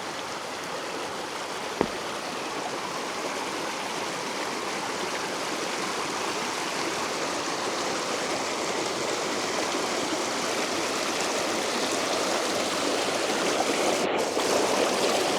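Fast-flowing river, a steady rush of water that grows gradually louder, with one short knock about two seconds in.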